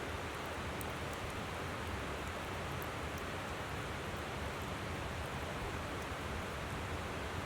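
Steady rush of a flowing river, with scattered small crackles and pops from a wood campfire.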